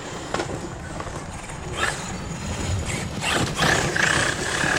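HoBao Hyper MT Sport Plus 2 RC monster truck being driven hard, its motor revving in bursts with a steady high whine near the end as the throttle is held open.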